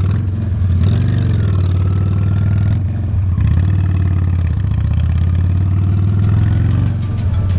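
Honda Steed V-twin motorcycle engine running under way, a steady note that rises and dips a little about a second in and again near the end.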